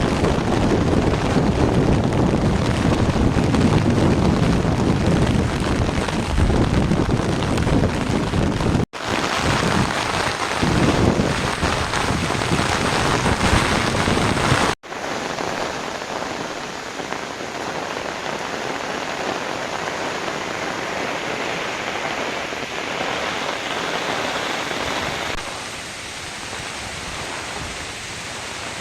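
Heavy rain pouring down steadily, with a low rumble under it in the first part. The sound cuts out abruptly twice, and after that it is a lighter, even hiss of rain.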